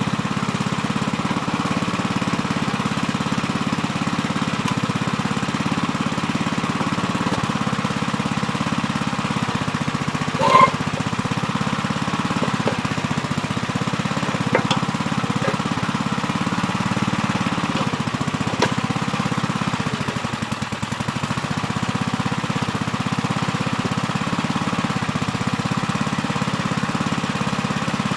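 Gravely Terramite compact backhoe's engine running steadily while the backhoe digs. A short, loud high squeal comes about ten seconds in, and a few sharp clanks follow later.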